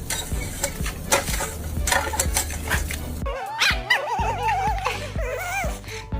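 A dog whining in wavering, rising and falling tones for a couple of seconds from about three seconds in, over background music with a steady low beat.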